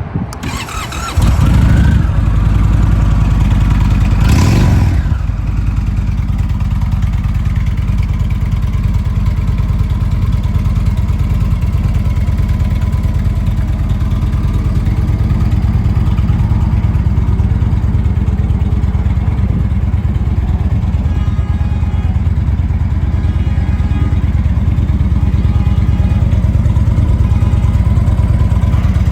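2018 Indian Springfield's Thunder Stroke 111 V-twin with Rinehart Racing exhaust starting up. It catches about a second in and is blipped once around four seconds in, the pitch rising and falling. It then settles into a steady idle.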